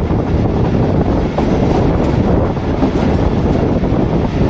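Passenger train running along the line, a steady rumble of the coach on the track, with wind buffeting the microphone.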